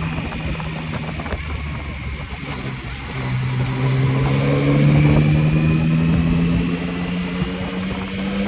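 Yamaha MT-09's three-cylinder engine under way. It runs steadily at first, eases off briefly, then from about three seconds in pulls harder, its note rising slowly as the bike accelerates through the gear.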